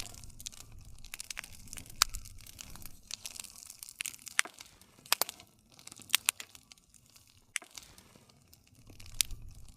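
Wood fire crackling: a steady stream of sharp snaps and a few louder pops over a soft hiss, with a low rumble of flame near the start and again near the end.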